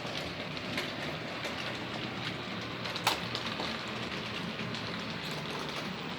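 Model train running on the layout track: a steady whirr of the motor and wheels with faint clicks over the rail joints, and one sharp click about three seconds in.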